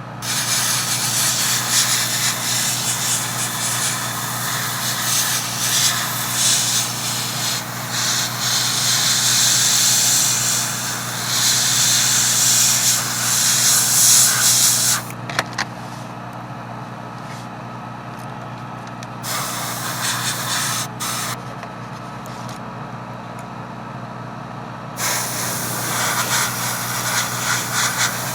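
Airbrush spraying paint in hissing bursts: one long spray of about fifteen seconds, then several shorter ones, over a steady low hum.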